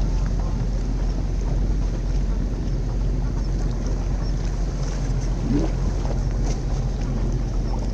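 Motorboat engine running steadily at an even pitch, with a hiss of wind over it.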